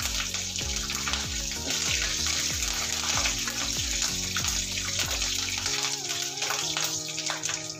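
Fresh curry leaves spluttering and sizzling in hot ghee in a kadhai, frying with chana dal, mustard seeds and dried red chillies: a steady hiss of tempering.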